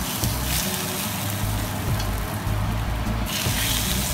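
Smoking-hot oil poured from a ladle over mapo tofu, sizzling as it hits the chili flakes, ground Sichuan pepper and scallions; the hiss starts about half a second in and eases off after three seconds. Background music plays underneath.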